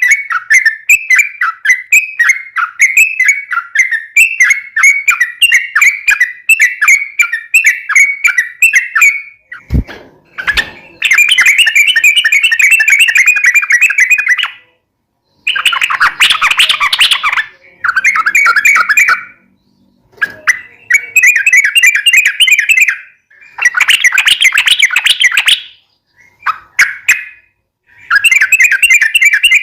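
Yellow-vented bulbul (trucukan) singing loudly. It starts with a quick run of repeated chirping notes, then gives long rapid chattering phrases in bursts of a few seconds with short silences between. A low thump sounds near ten seconds.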